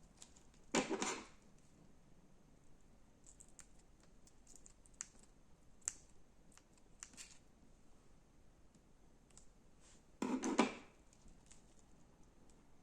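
Hands working crunchy slime: two short bursts of dense crackling, about a second in and near the end, with scattered small clicks and pops between.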